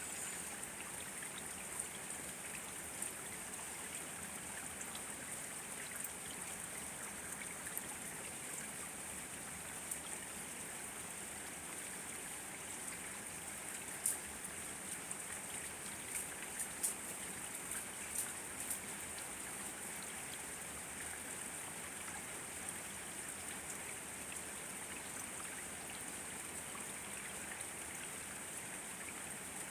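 Steady rain falling, an even hiss with scattered sharp drop ticks, a few louder drops splashing about halfway through.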